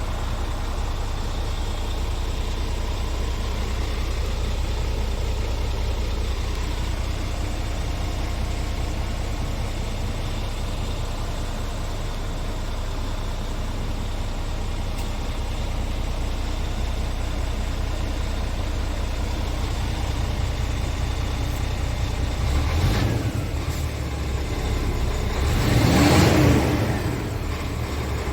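Scania R tractor unit's diesel engine idling steadily, then revved up twice near the end, the second rev the louder.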